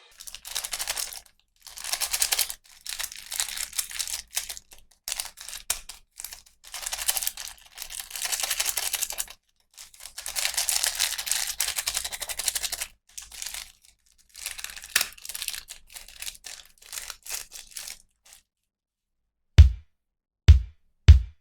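Plastic packaging crinkling and tearing in crackly bursts as a toy is unwrapped. A short pause follows, then a deep drum beat starts with three heavy thumps near the end.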